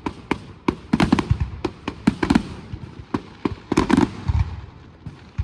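Fireworks display going off in a rapid, irregular run of sharp bangs, with heavier booms among them about a second in, a little past two seconds and near four seconds.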